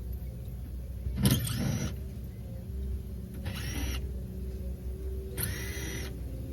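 A handheld power tool, such as a drill used to back out panel screws, runs in three short bursts, its whine rising as it spins up each time; the first burst is the loudest. A steady low hum runs underneath.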